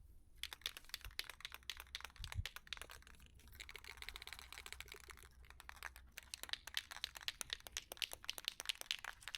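Aerosol spray-paint can being shaken, the mixing ball inside rattling in rapid clicks. A steady hiss lasts about two seconds in the middle.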